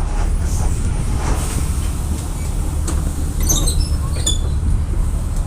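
VolksBus 17.230 EOD bus running on the road, a steady low engine and road rumble heard from inside, with a short run of high squeaks and rattles from the body a little past halfway.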